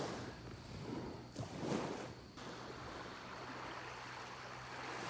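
Small waves lapping gently at the shore, washing in softly a few times over a faint steady low hum.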